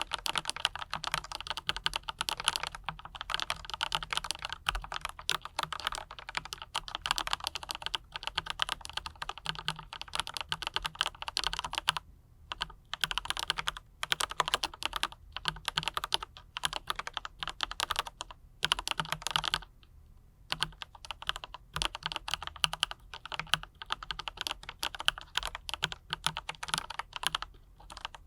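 Continuous fast typing on a mechanical keyboard fitted with Autumn Rain switches and PBT double-shot keycaps, a steady stream of key clacks broken by brief pauses about twelve seconds in and again around twenty seconds.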